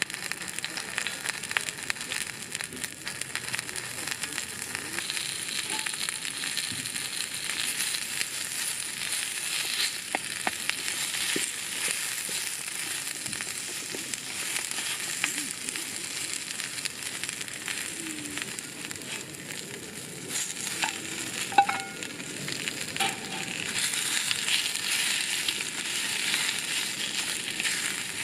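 Food frying in a pan, a steady dense sizzle with fine crackles. About two-thirds of the way through there is a short metallic clink.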